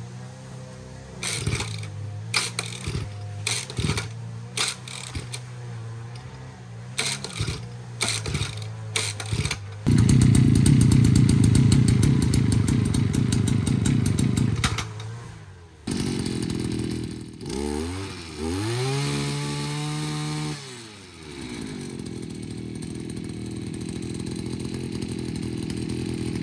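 Two-stroke brush cutter (motorised scythe) idling with short throttle blips. About ten seconds in it runs at full throttle for about five seconds, then drops back. The revs rise and fall again before it settles into a steady run near the end.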